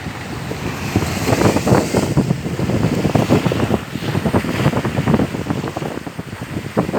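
Wind buffeting the microphone in irregular gusts over moving water.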